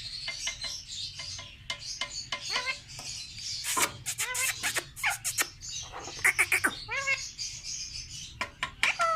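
Pet parrot calls: a run of short chirps and whistled calls that bend up and down, mixed with sharp clicks. The calls get busier and louder from about three seconds in.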